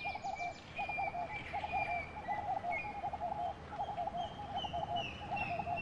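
Several birds calling: a low call repeated rapidly in short phrases, with higher whistled notes, some sliding down in pitch, every half second or so.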